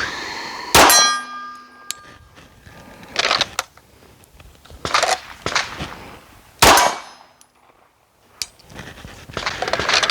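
Pistol shots on a range: a sharp shot about a second in, followed by a clear metallic ring lasting about a second, then weaker reports and a second loud shot near the end.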